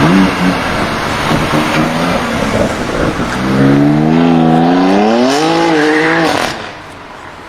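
BMW performance car's engine accelerating hard. A rough rumble gives way about three seconds in to a loud engine note that climbs in pitch with a couple of small dips, then falls away suddenly near the end.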